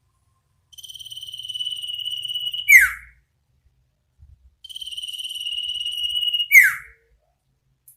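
Iora (sirtu/cipoh) calling twice. Each phrase is a rapid trill on one high note, about two seconds long and growing louder (the 'ngetir'), ending in a loud, sharp down-slurred whistle (the 'nyipow').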